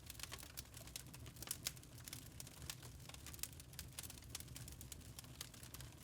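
Wood fire crackling in a fireplace: irregular sharp pops and snaps, several a second, over a low, soft rumble of the flames.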